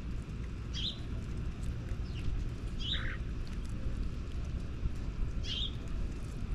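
A bird calling in short, high chirps, four times spread over a few seconds, over a steady low rumble.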